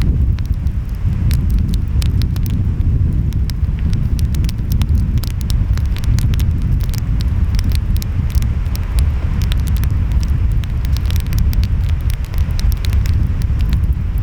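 Wood fire crackling, with frequent small irregular pops over a steady low rumble.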